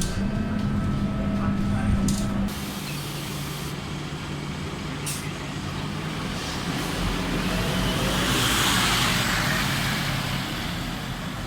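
Scania K230UB city bus's diesel engine running, dropping to a lower, quieter note about two and a half seconds in. A short sharp hiss of air comes about five seconds in, then a long hiss from the air brake system swells and fades in the second half.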